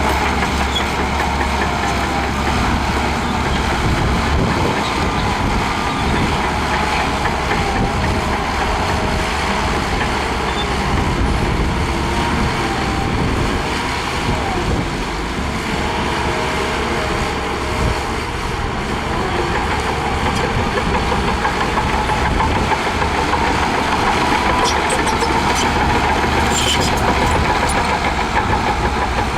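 Heavy diesel bulldozer engine running steadily at work, with a faint steady whine over it.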